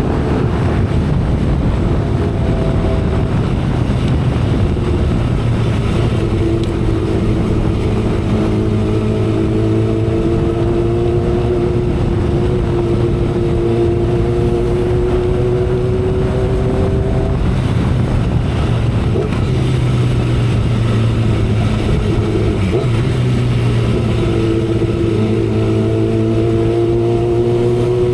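2012 Kawasaki Ninja ZX-10R's inline-four engine pulling at expressway speed under heavy wind rush on the microphone. Its note climbs slowly in pitch, fades, then climbs again near the end.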